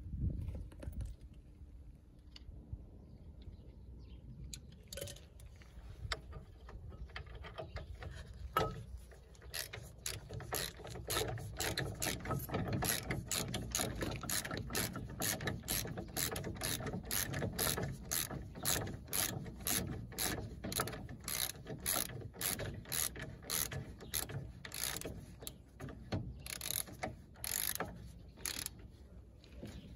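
Ratchet wrench clicking in a long, even run of rapid clicks as a brake caliper carrier bolt is wound in, after a few seconds of quieter handling noise.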